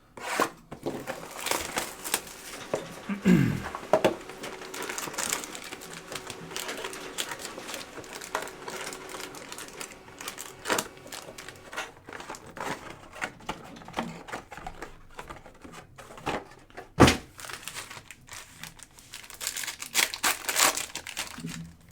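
Crinkling and rustling of packaging with many scattered clicks and taps, and one loud knock about 17 seconds in.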